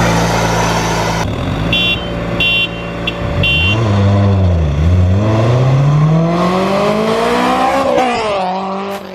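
Honda S2000's engine accelerating hard: its pitch climbs steadily for about three seconds, then drops at a gear change near the end.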